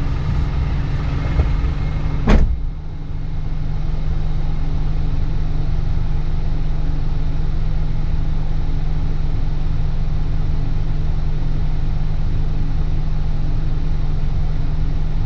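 Isuzu NPS 4x4 truck's diesel engine running with a steady low drone as the truck creeps across log bridges, with one sharp knock about two seconds in.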